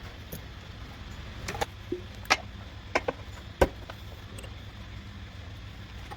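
About six sharp clicks and knocks of tools and parts being handled during car repair work, the loudest about three and a half seconds in, over a steady low hum.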